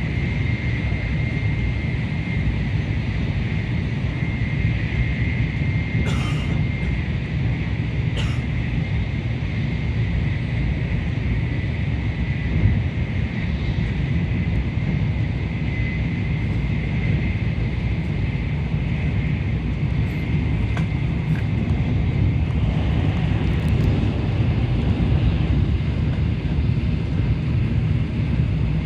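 Tokaido Shinkansen train running at speed: a steady low rumble with a faint thin high whine over it, and two brief clicks about six and eight seconds in.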